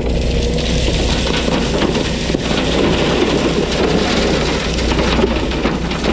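Heavy diesel machinery running steadily, with a dense crackling crunch of gravel and rock over it.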